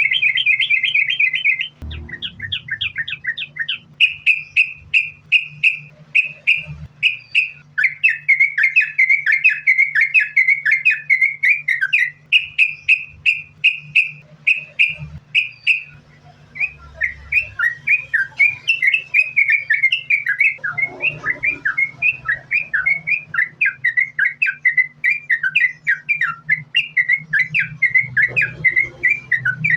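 Yellow-vented bulbul (trucukan) singing a long run of rapid, short chirped notes, strung together almost without a break ('sambung ropel' song), with a few short pauses. A faint steady low hum lies underneath.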